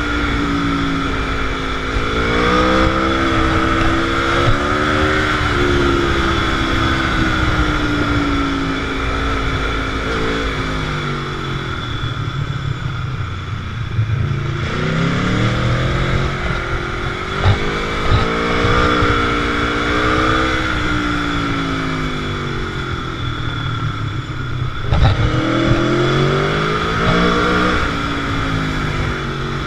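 Motorcycle engine on the move, its pitch rising and falling as it accelerates, shifts and rolls off several times, over a steady rushing noise.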